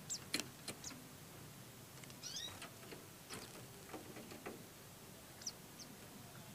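Faint, short high-pitched chirps from white-eyes (pleci), with several soft clicks and taps in between; one chirp about two seconds in slides downward in pitch.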